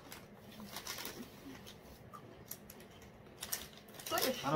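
People chewing crisp biscuits, a faint run of small irregular crunches and mouth clicks. A voice starts near the end.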